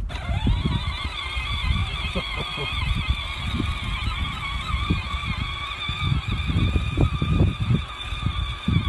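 John Deere tractor running under load with a steady, slightly wavering high-pitched whine over a low engine rumble, with scattered knocks and rattles.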